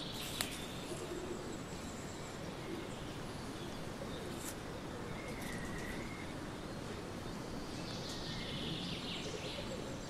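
Outdoor ambience: a steady background hiss with faint bird chirps now and then, including one short whistled note about halfway through. A soft click comes about half a second in.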